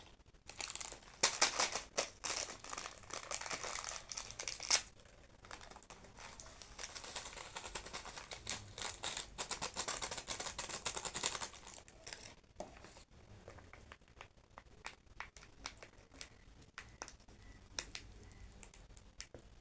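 Plastic instant-noodle packet crinkling and crackling as it is crushed and torn open by hand, in bursts for the first few seconds and then more steadily, followed by scattered light clicks and rustles.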